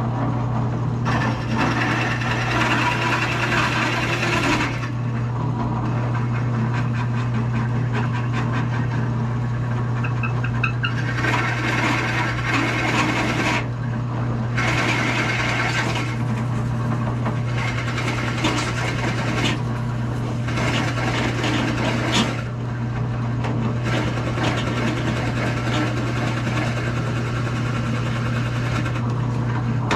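Power drill running a Forstner bit into a solid wood guitar body: a steady motor hum throughout, with bouts of cutting noise that come and go every few seconds as the bit bores out wood chips.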